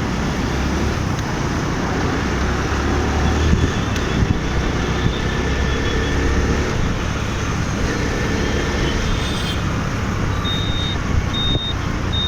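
Road traffic noise heard while riding a motorbike through a city, with engines running and a constant rush of noise. About ten seconds in, a short high beep starts repeating a little faster than once a second.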